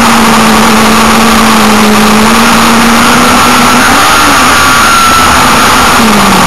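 Hill-climb car's engine running hard at steady high revs, heard from a camera on the car's bodywork with heavy wind and road noise. The engine note wavers briefly about four seconds in and drops near the end.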